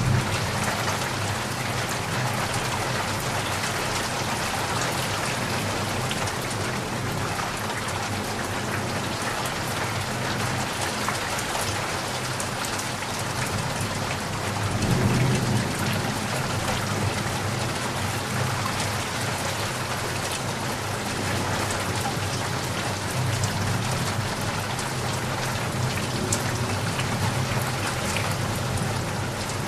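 Steady rain falling and pattering on surfaces, with fine drop ticks throughout. A low rumble swells briefly about halfway through.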